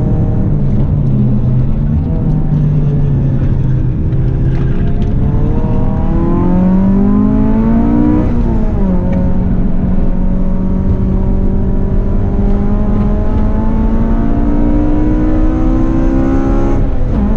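Honda Civic EK hatchback engine pulling hard through the gears. The revs dip early on, climb for several seconds and fall sharply at an upshift about eight seconds in. They then rise slowly again until another drop near the end, over steady road and wind noise.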